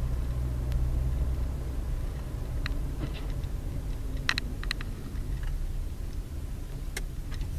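Steady low rumble of a car driving, with a few brief high clicks or squeaks a little past the middle and one more near the end.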